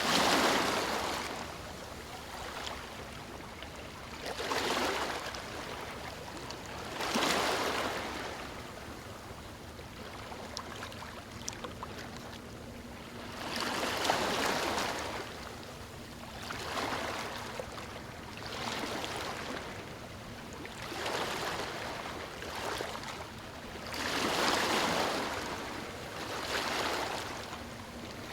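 Small waves breaking and washing over a stony shore, each one surging up and falling back every few seconds at an uneven pace.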